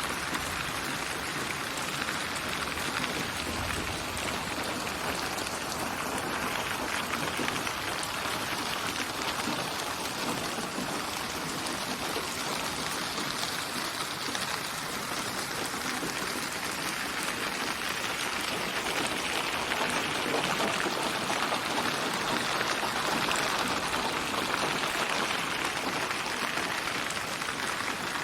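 Steady rain falling, an even patter of many drops on a surface that hardly changes in level.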